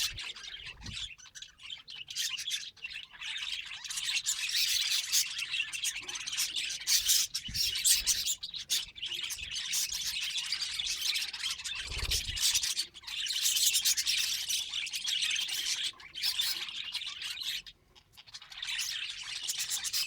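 Pet budgerigars chattering and warbling: a dense, continuous, high-pitched twittering made of many quick notes. It breaks off briefly near the end, then resumes.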